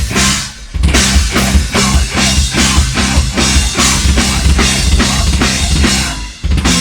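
Live metal band playing loud: a drum kit pounding out regular hard hits, about four a second, over a low bass line. The band stops short for a moment about half a second in and again just before the end.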